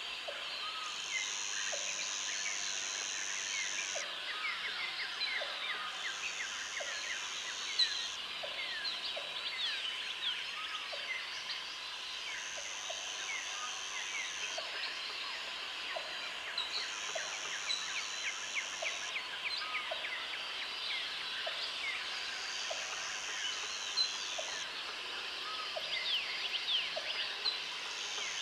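Tropical forest chorus: many birds chirping and calling over one another, with a high insect buzz that sounds in bursts of about two seconds, roughly every five seconds. A short low call repeats about once a second underneath.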